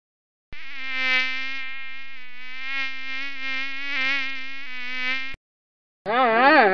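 A swarm of mosquitoes buzzing in flight: a steady whining drone that starts about half a second in and cuts off abruptly about five seconds in. Near the end, after a short silence, a loud wavering pitched call begins.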